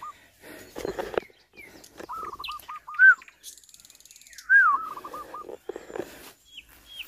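A bird calling repeatedly: two runs of five or six quick looping notes, each run under a second long. The second run opens with a louder rising-and-falling note.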